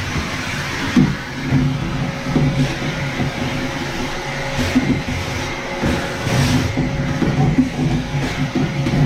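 Vacuum cleaner running steadily on a floor, with a constant whine and uneven low surges as it is worked around.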